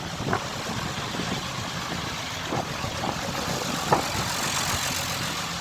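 Vehicle engine running steadily, with a few short sharp sounds over it, the loudest about four seconds in.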